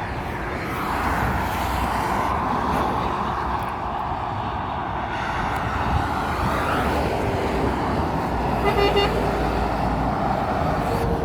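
Heavy road traffic passing close by, with a steady rush of engine and tyre noise. About nine seconds in, a vehicle horn gives one short toot.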